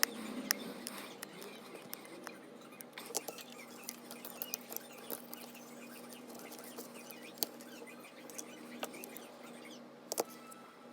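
Small tools clicking and scraping on an iPhone 7 during a charging-port repair: irregular light ticks and taps, a sharper click about half a second in and a couple more near the end, over a faint steady hum.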